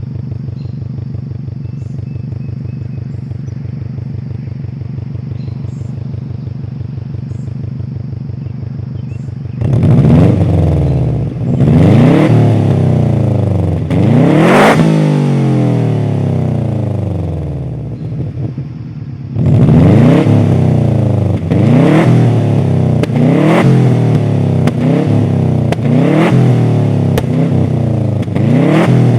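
2005 Subaru WRX's turbocharged flat-four engine through a custom exhaust with a MagnaFlow Cannon muffler, its packing partly drilled out for more volume. It idles steadily, is revved up and down in a few sweeps about ten seconds in, and settles back toward idle. From about twenty seconds in it is blipped again and again, roughly once every second and a half.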